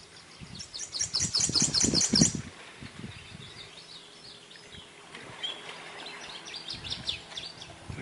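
A songbird singing a fast run of about ten repeated high notes, starting about a second in, over a low rumble on the microphone. Fainter, scattered bird notes follow in the second half.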